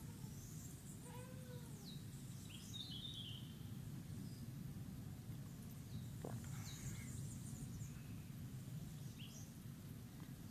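Several short bird chirps and calls, some sweeping downward, over a steady low background rumble.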